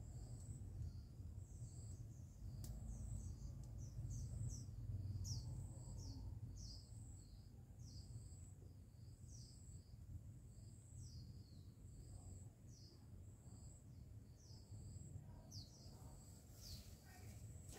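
Faint outdoor ambience: a small bird repeating short, high chirps that fall in pitch, about every two-thirds of a second, over a steady pulsing high whine and a low rumble. A short rustle near the end.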